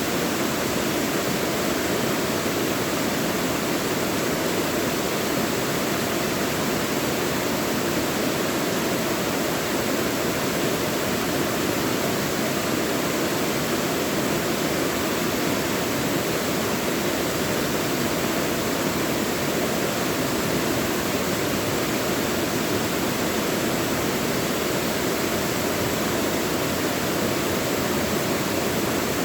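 Mountain valley stream rushing steadily over rocks, a dense, even splashing hiss without changes.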